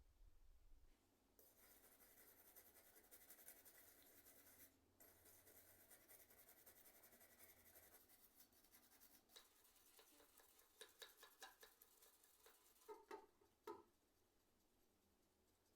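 Faint scratchy scrubbing and rubbing, typical of keyboard parts being cleaned by hand. Light clicks and taps come in towards the end, and the loudest are a few taps just before it goes quiet.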